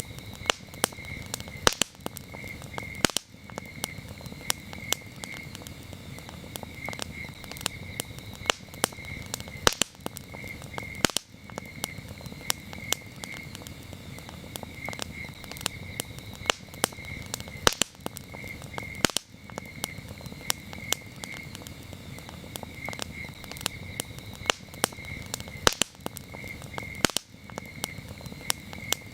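Wood campfire burning with frequent sharp crackles and pops over a steady low rush of flame, while crickets chirp steadily in a rapid pulsing trill throughout.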